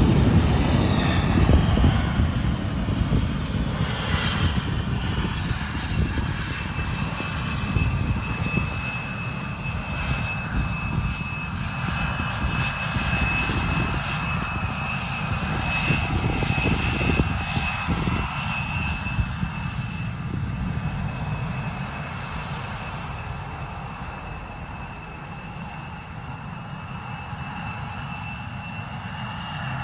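Jet airliner engines running: a loud low rumble that slowly fades, with a steady high whine coming in about seven seconds in.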